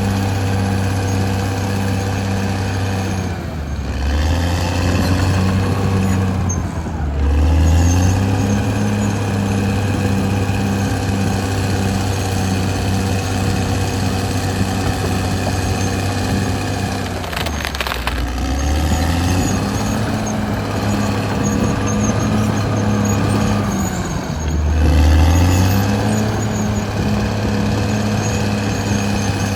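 Caterpillar D6R XL bulldozer's diesel engine running steadily. Its pitch drops briefly and climbs back four times, about 4, 7, 18 and 25 seconds in, and it runs louder after two of these drops.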